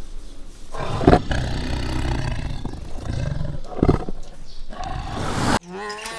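Deep, rough roaring from a large animal, loudest about a second in and again about four seconds in. Near the end it cuts off sharply and a short pitched animal call begins.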